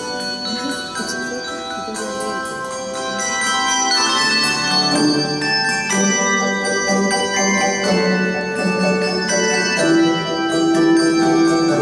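A handbell choir plays a melody with chords: many struck, ringing bell notes overlapping. About four seconds in, deeper bass bells join and the music grows fuller and louder.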